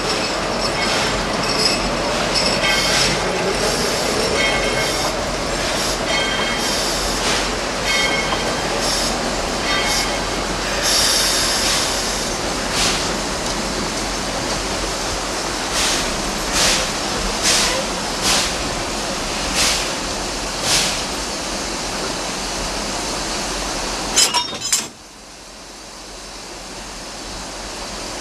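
Narrow-gauge passenger train rolling along, heard from on board: steady running noise with the wheels clicking over rail joints, and high, thin wheel squeal through the first ten seconds or so. About 25 seconds in there is a sharp knock, and then the sound drops much quieter.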